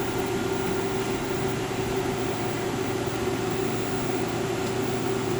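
TurboChef SOTA high-speed convection microwave oven running in combined microwave and convection mode: a steady rushing blower with a constant hum.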